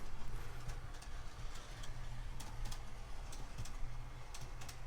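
O-gauge model train rolling along its track: wheels clicking irregularly over the rail joints, over a steady low rumble from the running train.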